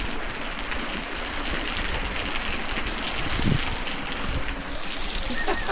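Hot spring water pouring and splashing steadily down a weeping rock wall, with a short thump about three and a half seconds in.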